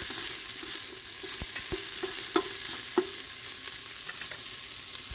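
Broccoli sizzling in olive oil in a frying pan as it is stirred, with a steady hiss and a utensil knocking against the pan several times between about one and three seconds in.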